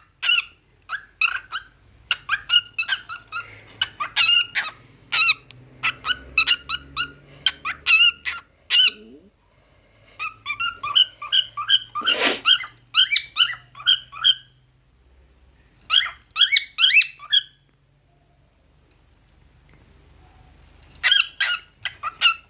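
A bird giving runs of short, high, squeaky calls, several a second, broken by a few pauses. A brief hissing noise about twelve seconds in.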